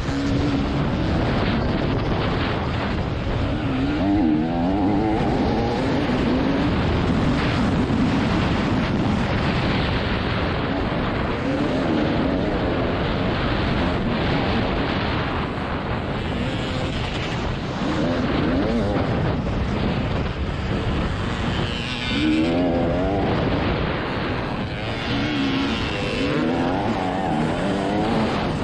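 A TM Racing 300 single-cylinder two-stroke motocross bike running hard, its engine note rising over and over as the rider works the throttle through the gears.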